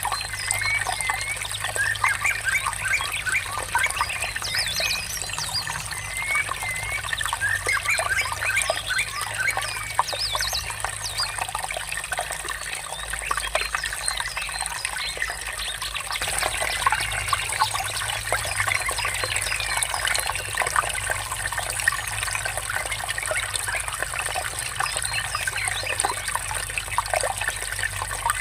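Water trickling and murmuring steadily, with many small birds chirping over it in quick short calls.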